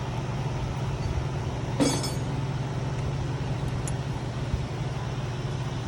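A small metal clamp clinks once sharply, with a brief ring, about two seconds in as it is set on the brush spring of a hydraulic pump's electric motor. A faint tick follows later, over a steady low hum.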